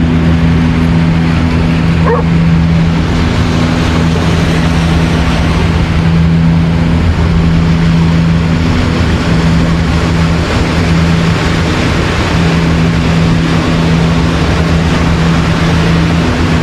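Steady wash of ocean surf with a low, steady drone under it. A dog barks once about two seconds in.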